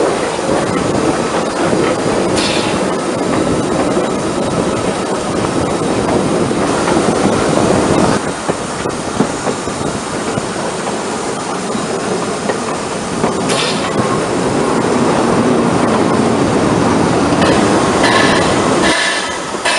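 Narrow-gauge steam train running: a steady rumble and clatter of wheels on rail, heard close behind the locomotive. Short high-pitched bursts break in twice, once near the start and once past the middle, with a few more near the end.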